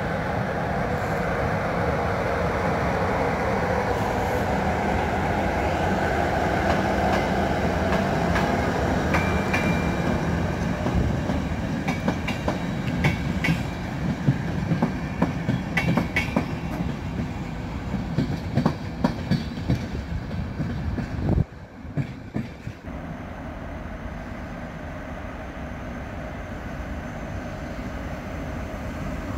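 Train running past on the rails: a steady rumble, then repeated clacking of wheels over rail joints through the middle. The sound drops suddenly about two-thirds of the way through, leaving a quieter, steady rumble.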